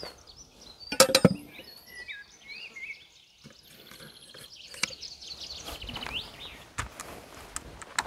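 A songbird singing a quick, varied warbling song, over knocks and clinks of dishes and tea glasses being set down on a camp table, the loudest about a second in.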